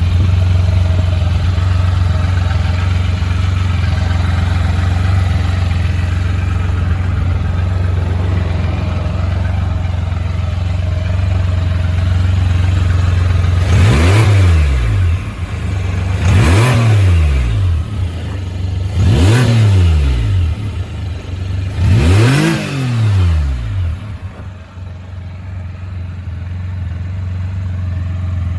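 Can-Am Spyder RT three-wheeled motorcycle engine idling steadily. Four times, about halfway through, the throttle is blipped and each rev quickly rises and falls back. It then settles to idle again.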